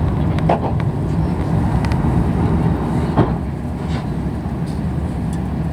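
Steady low rumble inside an Airbus A350-900 passenger cabin, with a few light clicks and rattles over it.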